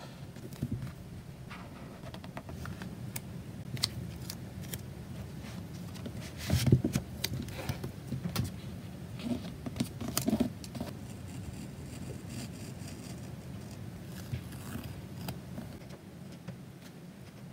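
Stationery being handled while decorating a journal: scattered light taps, clicks and paper rustles, with a busier cluster about six seconds in and again around ten seconds.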